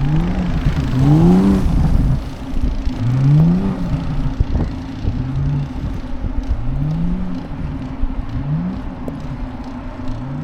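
Car engine revving in short repeated pulls, its pitch rising and falling about every two seconds, over a steady low hum.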